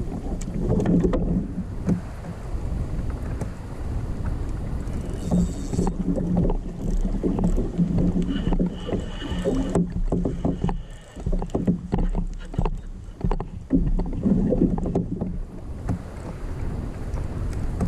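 Kayak on the water: irregular knocks and splashes of water and paddle against the hull, over a steady low hum and wind on the microphone.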